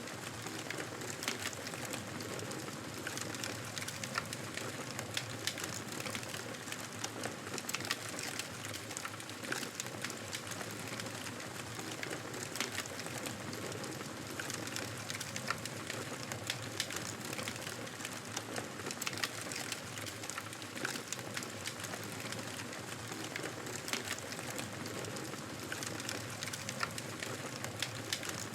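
Campfire burning steadily, a constant hiss of flame with many small irregular crackles and sharp pops of burning wood.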